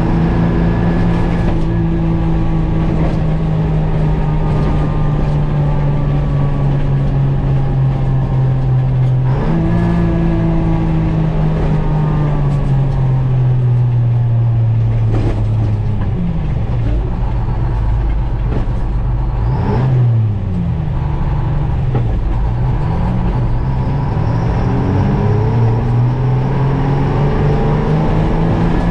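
GMC Crackerbox semi's two-stroke Detroit Diesel engine pulling under load. Its pitch sags slowly, jumps up about nine seconds in as it changes gear, then rises and falls several times through the second half as it revs and shifts.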